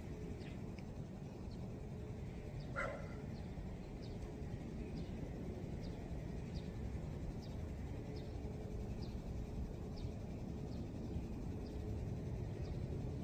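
A bird repeating a short high chirp a little more than once a second over a steady low outdoor rumble that grows slightly louder toward the end. One brief lower call comes about three seconds in.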